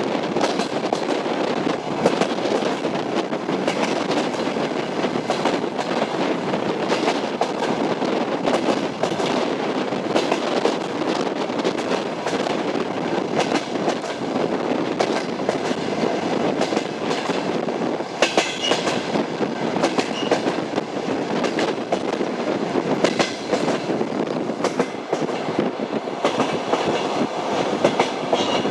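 Railway carriage wheels clattering over rail joints: a steady rumble with a running clickety-clack of knocks, and a few brief high squeals from the wheels in the second half.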